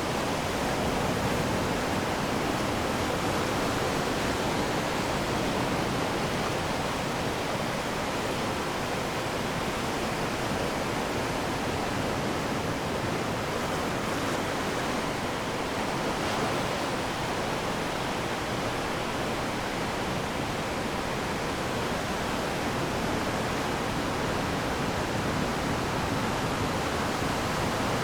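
Ocean surf washing on the shore, heard as a steady rushing noise with no single wave standing out.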